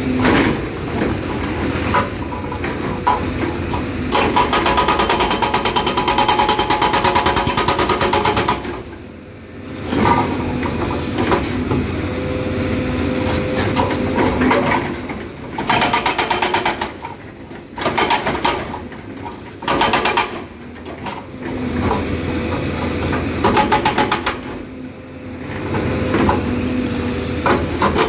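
Excavator-mounted hydraulic breaker hammering hard rock in a series of bursts of rapid blows with short pauses between, over the steady running of the excavator's diesel engine.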